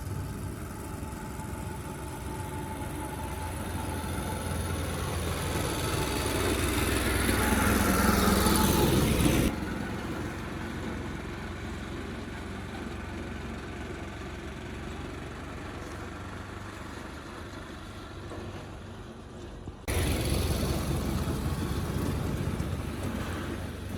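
Motor vehicle engine running and growing louder over about nine seconds, with a falling sweep in pitch before it cuts off abruptly. A steadier, quieter engine hum follows, and the level jumps up again near the end.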